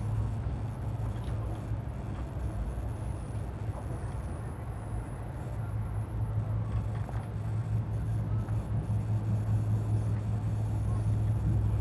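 Steady low drone of a running vehicle, with an even rumbling noise over it.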